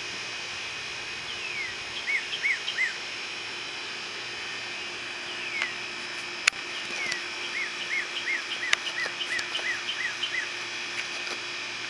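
A songbird singing two phrases, each a falling note followed by a run of short arched notes, the second run longer, over a steady background hiss and low hum. A sharp click about halfway through.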